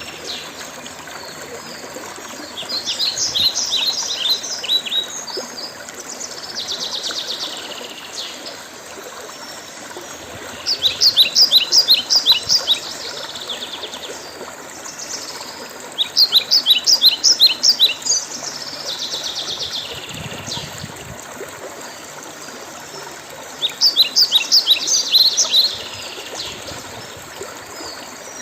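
Birds singing: about four loud phrases of rapid, evenly repeated high notes, each lasting about two seconds, with softer calls between them. A steady hiss runs underneath.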